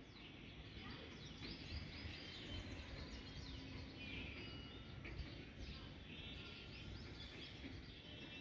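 Faint birdsong, many short chirps and twitters, over low outdoor background noise.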